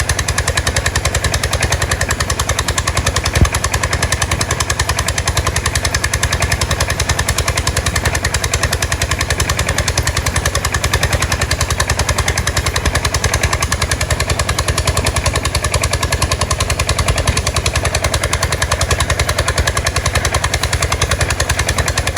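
Boat engine running steadily with a rapid, even chugging beat. There is one sharp knock about three and a half seconds in.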